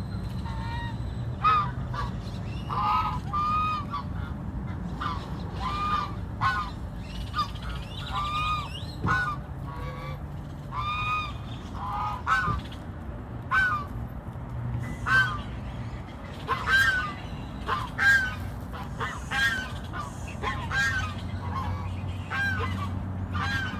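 Geese honking: a long run of short calls, about one or two a second, sometimes overlapping, over a steady low rumble.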